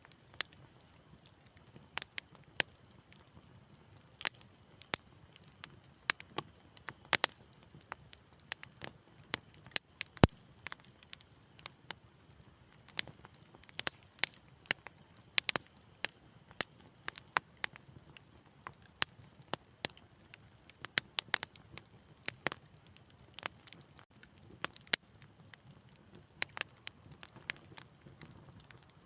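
Wood fire crackling in a fireplace: irregular sharp pops and snaps, several a second at times, over a faint low hiss of burning.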